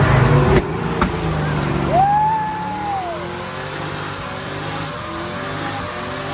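A car engine revs hard and then drops off about half a second in, with a sharp crack soon after. It keeps running under load while a high squealing tone rises and falls once, the kind of squeal tyres make in a burnout or drift.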